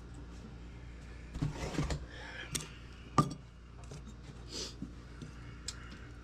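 An old lantern being handled while it is worked on: a few clatters and clicks, then one sharp knock with a brief metallic ring, followed by a short scrape and a last click.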